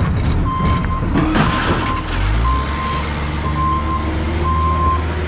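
A yard machine's reversing alarm beeping steadily about once a second over its running engine, whose note drops about two seconds in.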